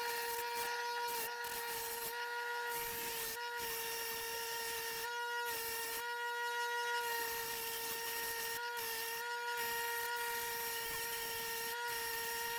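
Electric bench buffer running with a steady whine, its buffing wheel polishing tarnish off a brass fire extinguisher body, the hiss of the wheel on the metal dipping now and then.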